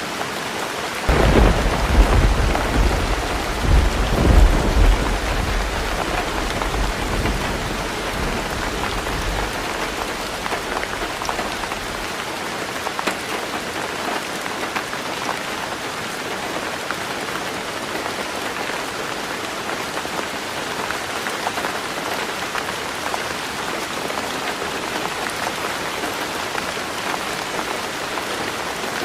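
Heavy rain drumming steadily on a tin roof, with a clap of thunder about a second in that rumbles twice and fades away over the next several seconds.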